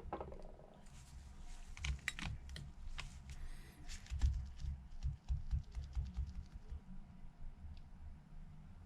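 Scattered light clicks and taps from handling an opened iPhone 11 on the repair bench, busiest in the first half, with a few soft low thumps about halfway through.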